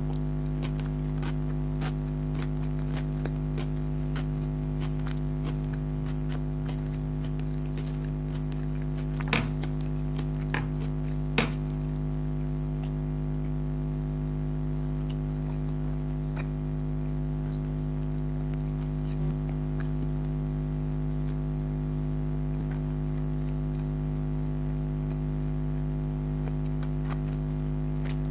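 A person eating chicken karahi and naan, with small clicking mouth and chewing sounds through the first half and three louder clicks about nine to eleven seconds in, over a steady low hum.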